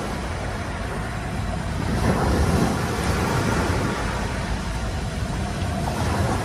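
Surf washing onto a sandy beach with wind rumbling on the microphone: a steady rushing noise that swells a little about two seconds in.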